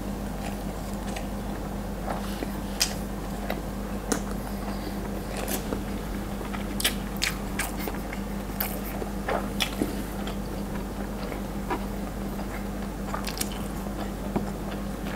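Close-miked chewing and crunching of mouthfuls of food, with many short wet mouth clicks scattered throughout, over a steady low hum.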